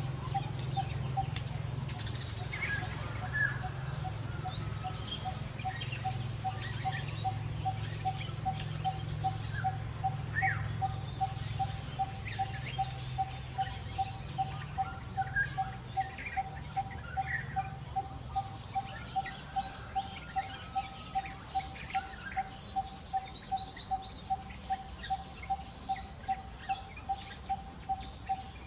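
Outdoor bird chorus: one bird repeats a single steady note about two to three times a second throughout. Over it come scattered high chirps, and a quick run of chirps a little past the middle. A low hum underneath fades out about two-thirds of the way through.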